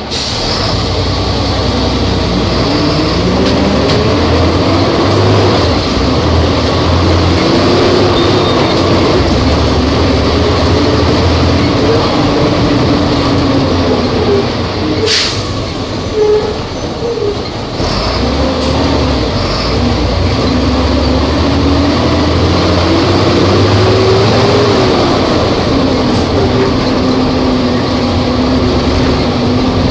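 Volvo B270F bus engine running under way, its pitch rising and falling as it pulls. About halfway through it falls away briefly with a sharp click, then picks up again.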